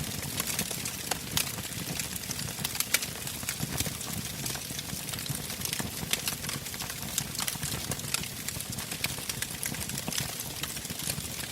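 Bonfire crackling: frequent, irregular sharp pops and snaps of burning wood over a low, steady rumble of the flames.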